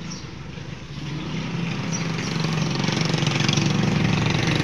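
A small engine running steadily, growing louder from about a second in.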